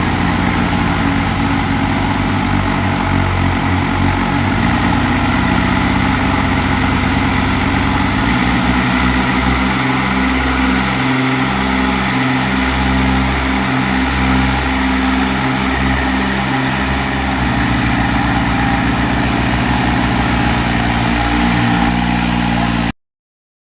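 Tractor diesel engines running hard, a steady low engine note with a rough haze of mechanical noise above it. The engine note shifts about eight seconds in, and the sound cuts off abruptly just before the end.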